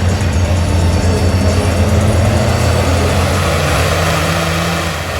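A large off-road vehicle engine running loud and steady at high revs, easing off a little near the end.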